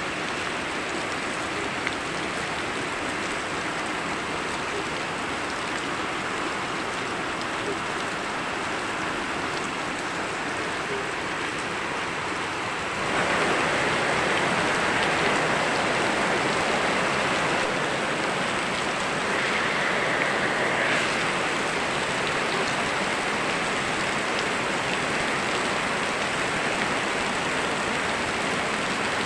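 Steady rain falling, mixed with running river water, as an even hiss and patter. About 13 seconds in it grows louder and brighter, and stays so.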